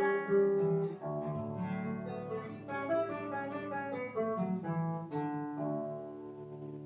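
A solo plucked string instrument playing a melody over low bass notes, then striking a chord about five seconds in that rings out and fades away.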